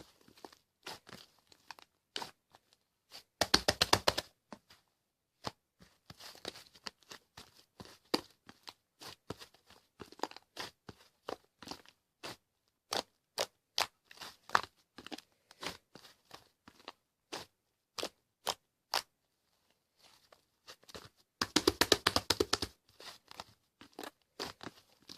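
Slime being squished and stretched by hand: scattered sharp sticky pops and clicks, with two dense runs of rapid crackling pops lasting about a second each, one a few seconds in and one near the end.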